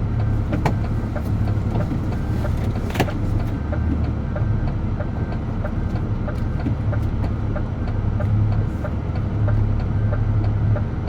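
DAF truck's diesel engine running steadily while driving, a low steady rumble with light ticks and rattles throughout and one sharper click about three seconds in.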